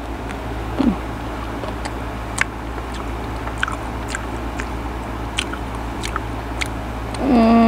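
Biting and chewing slices of semi-ripe mango: scattered sharp wet mouth clicks over a steady low hum, with a short hum of the voice near the end.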